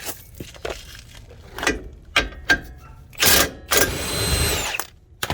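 Impact driver with a 21 mm socket run on a strut bolt: a short burst about three seconds in, then a second burst about a second long that winds down as it stops, breaking the bolt loose. A few sharp clicks and knocks of tool handling come before.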